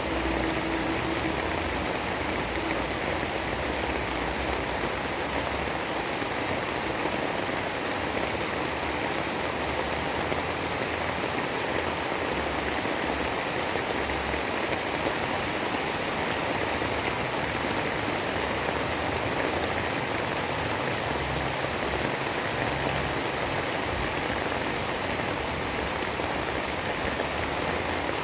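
Steady rain noise from a storm ambience: an even, unbroken hiss with no separate events.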